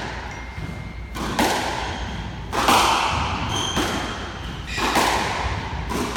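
Squash rally: the racquet striking the ball and the ball smacking the walls, about four sharp hits in the echoing court, a second or two apart, with a few short high squeaks in between.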